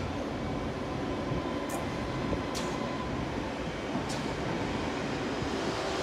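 A Class 230 D-Train multiple unit (converted ex-London Underground D78 stock) running slowly into the platform with a steady rumble of train and wheels. A few faint high ticks come through it.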